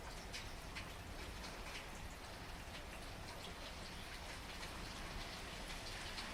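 Steady rain falling, with many separate raindrops striking close by as short, sharp ticks over an even hiss.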